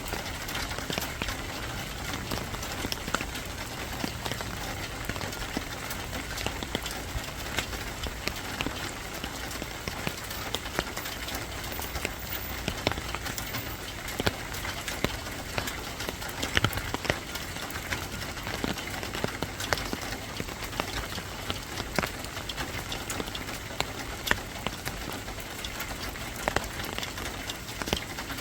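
Steady rain falling, with many individual drops landing irregularly on a hard surface.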